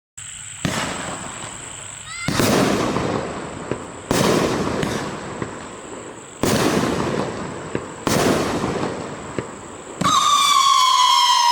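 An 18-shot consumer fireworks cake firing: about five loud shots a second and a half to two and a half seconds apart, each followed by a hissing, crackling burst that dies away. Near the end a whistling tail begins, a loud steady whistle sliding slowly down in pitch.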